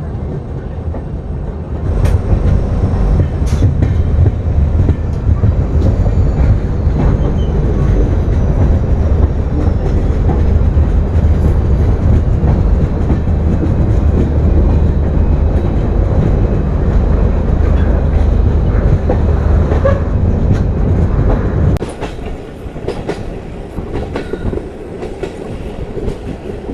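Passenger train running on the track: a steady heavy rumble with scattered wheel clicks over the rail joints, growing much louder about two seconds in and dropping back near the end.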